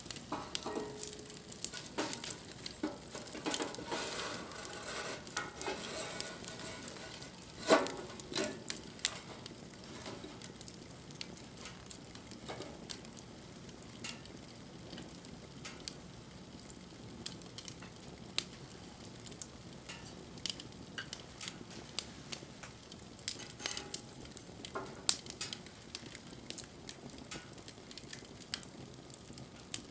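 Wood fire crackling: irregular sharp pops and clicks over a soft hiss. The crackling is busiest in the first ten seconds, with single loud pops about 8 and 25 seconds in.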